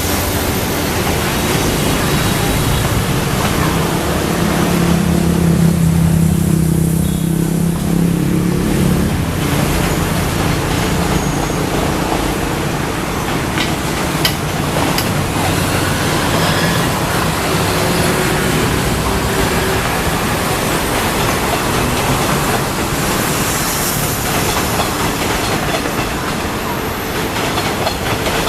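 Diesel train running past on the track: a deep engine drone that is loudest about five to nine seconds in, then a steady rumble of wheels on the rails.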